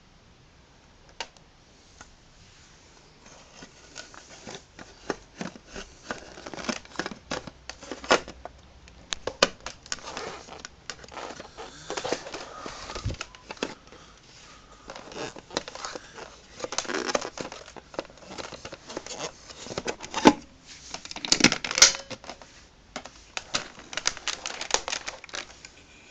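Irregular clicks, knocks and crinkling of things being handled by hand, with no motor running.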